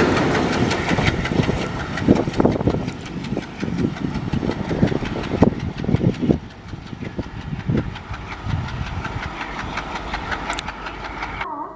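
A train running on the rails: a dense, rattling clatter that slowly fades and cuts off suddenly near the end.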